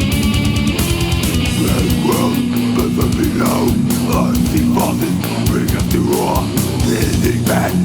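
Death metal music: heavily distorted electric guitar riffing with drums.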